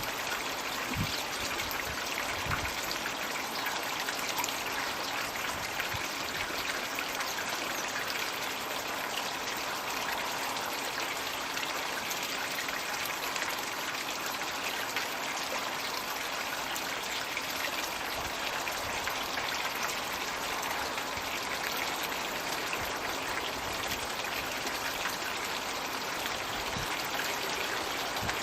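Steady splashing and trickling of water pouring from a floating Magic Bucket water feature into a garden pond.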